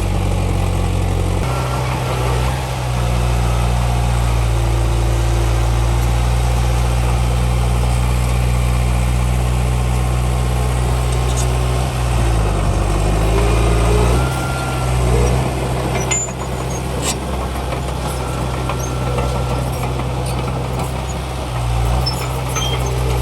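Heavy diesel engine of earthmoving machinery running steadily, its engine speed dipping and rising again about halfway through. A few sharp metallic clanks follow shortly after.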